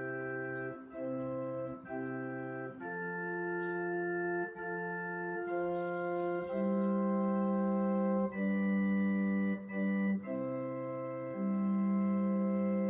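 Organ-voiced keyboard playing slow, held chords that change every second or two, with a brief splash of high hiss about halfway through.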